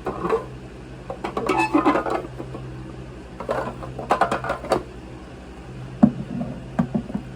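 Irregular light clatter and clicks of objects being handled, in two busy spells and one sharp knock near the end, over a steady low hum.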